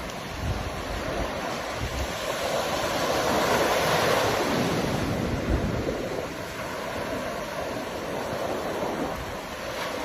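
Ocean surf: a continuous wash of waves that swells to its loudest around the middle and then eases off.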